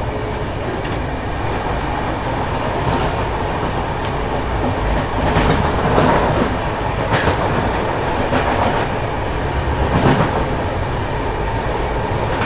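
Running noise of an express train coach in motion, heard from inside: a steady rumble with scattered clicks and knocks from the wheels and the coach body, most of them in the middle of the stretch.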